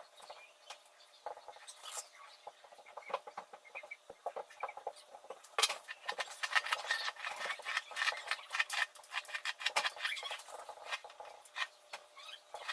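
Faint, irregular small clicks and rustles, like close handling noise; they become busier and louder about five and a half seconds in.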